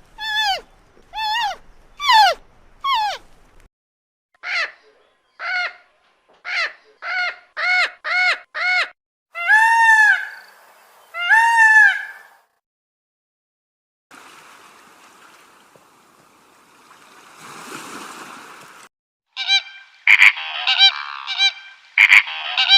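A run of separate goose-like honking bird calls. First come four falling calls, then about seven short calls in quick succession, then two longer arched calls. After a stretch of hissing noise, a dense burst of rapid calls starts near the end.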